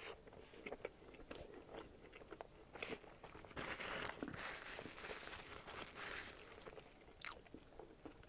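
Close-miked biting and chewing of a McDonald's McDouble cheeseburger dressed like a Big Mac: a bite at the start, then soft crunching and wet mouth sounds, with a louder, hissy stretch from about three and a half to six seconds in.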